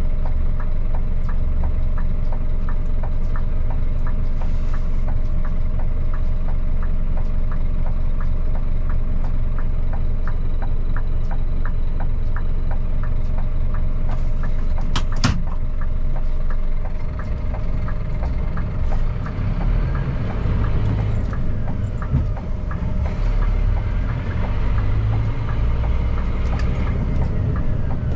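Scania P310 truck's diesel engine running steadily under way, heard from inside the cab, with one short sharp click about halfway through. In the second half the engine note drops a little and becomes more uneven.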